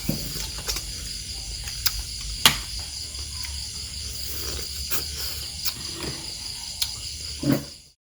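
Insects chirring in a steady high-pitched chorus, with scattered sharp clicks and taps and a dull thump near the end.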